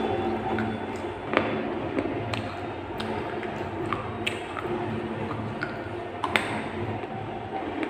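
Baked clay from a terracotta pot being chewed close to the microphone, with a sharp crunch every second or so over a steady low hum.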